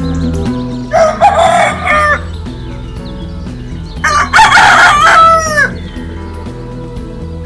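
A rooster crowing twice, the second crow longer and ending in a falling pitch, over steady background music.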